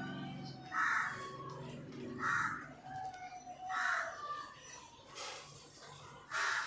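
A bird calling in short, harsh bursts, about five times, roughly every second and a half.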